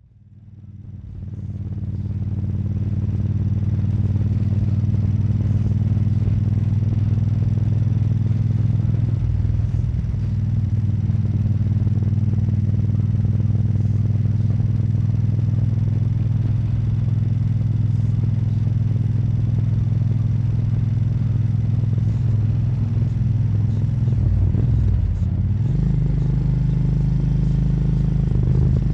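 Moto Guzzi California EV's air-cooled V-twin running steadily while riding at road speed, heard from the rider's helmet. It fades in over the first few seconds, and its note wavers briefly about ten seconds in and again around twenty-five seconds.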